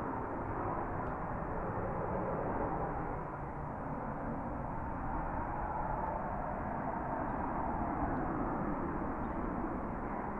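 Jet engine of an F-35B Lightning running steadily, a continuous rumble with a faint whine.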